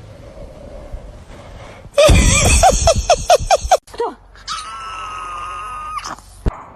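Dog vocalizing. About two seconds in comes a loud run of quick yelps that rise and fall in pitch, and after a short gap a long howl held at one steady pitch.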